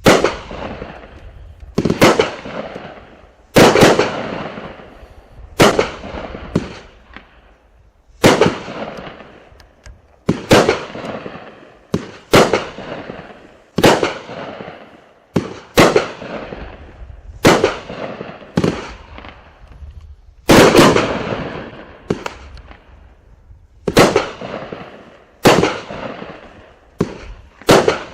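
A 300 g, 30-shot consumer fireworks cake firing its shots one after another, a sharp bang about every one and a half to two seconds, each trailing off over about a second. The shots come closer together near the end.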